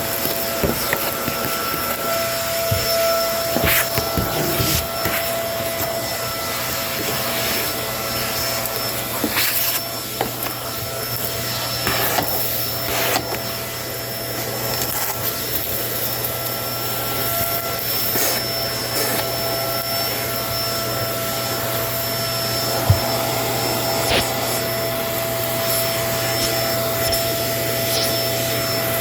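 Kenmore vacuum cleaner running steadily with a constant whine, picking up debris with scattered sharp clicks and crackles.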